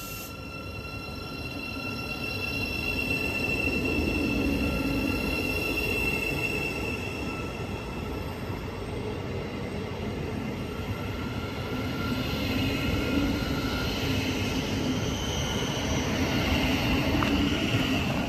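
Great Northern Class 717 electric multiple unit running along the platform: a steady rumble of wheels on rail with a high whine over it. It grows louder over the first few seconds as the train draws alongside and swells again near the end.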